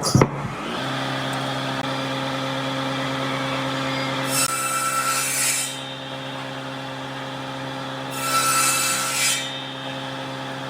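A woodworking power tool starts up with a sharp clatter and runs with a steady motor hum. Twice, for a second or so each time, a harsher rushing sound rises over the hum, as the tool works the wood.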